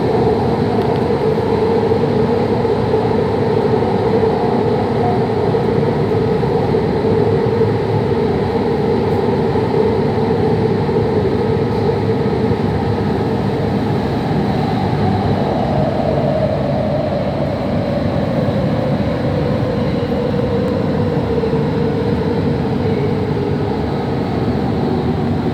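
Qatar metro train running, heard from inside the carriage: a loud steady rumble with a humming whine, which falls in pitch during the second half as the train slows toward a station.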